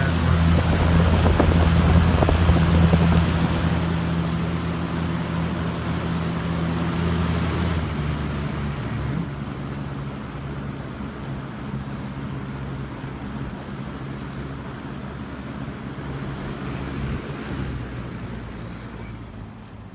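Galaxy box fan running on high: a steady motor hum under the rush of air from the blades. About eight seconds in it turns quieter and then runs on steadily. The fan's oil-wick bearings are freshly oiled, on a motor that keeps seizing up.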